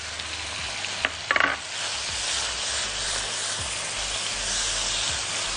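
Sausage pieces, garlic and peas sizzling in hot olive oil in a wok while a spatula stirs them, with a few short knocks about a second in. The sizzle grows a little louder about two seconds in.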